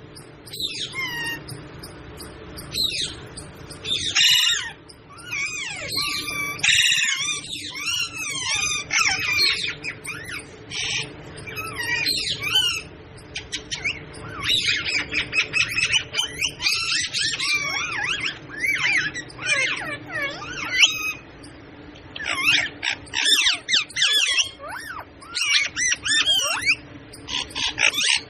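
Pet parrot chattering and squawking: a long run of short, shifting calls with a few brief pauses.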